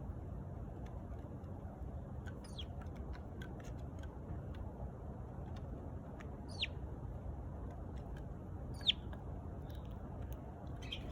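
Eurasian tree sparrow giving three short chirps that fall in pitch, a few seconds apart, with faint ticks between them over a steady low background noise.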